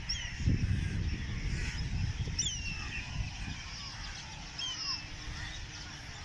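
Birds calling outdoors: a few short, high, falling whistled notes about two seconds apart, over a low rumble on the microphone.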